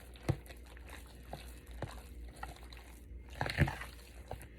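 Fork stirring milk into mashed potatoes in a bowl: wet mixing with a few sharp clicks of the fork against the bowl, the loudest cluster about three and a half seconds in.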